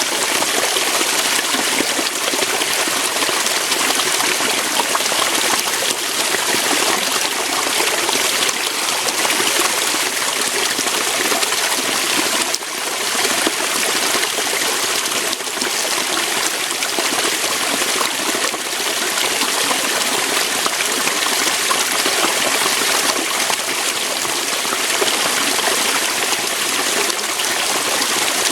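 Waterfall: water pouring steadily over rocks.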